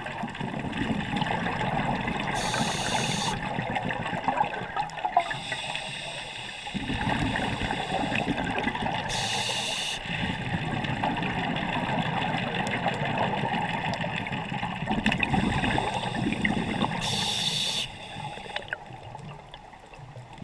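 Water sounds, bubbling and gurgling, with a short hiss about every seven seconds.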